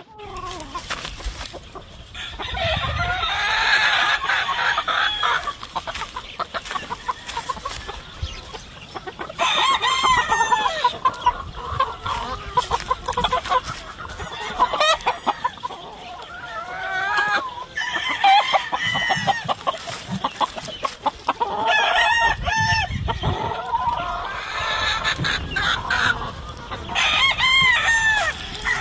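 Several roosters crowing again and again, about eight crows over the stretch, some overlapping, over a steady background of chickens clucking.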